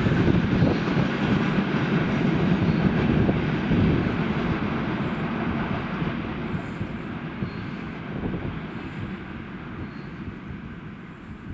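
Freight train rolling past on the rails, the wagons' rumble loud at first and then fading steadily as the train moves away.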